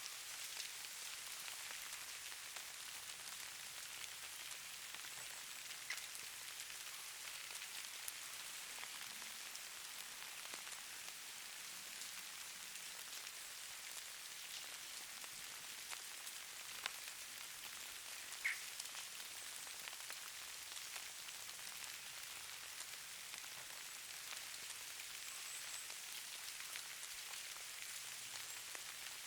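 Steady, fine patter of falling precipitation on surfaces, a soft even hiss with a few sharper single ticks scattered through it, the loudest about two-thirds of the way in.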